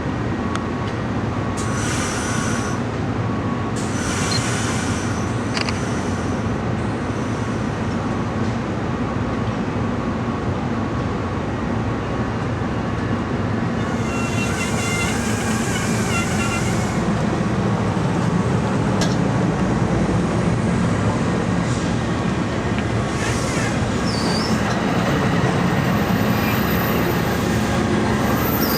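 A train running at the station with a steady heavy rumble. A spell of hiss comes about halfway through, and a brief high squeal follows near the end.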